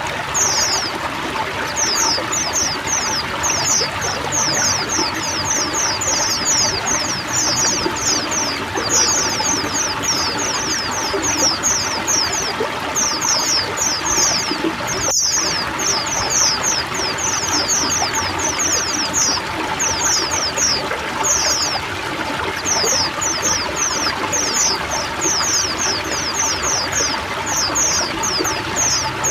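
A flock of white-eyes (pleci) chirping rapidly and without pause, with many high, quick downward-sweeping notes overlapping, over the steady sound of running water. The sound drops out for a moment about halfway through.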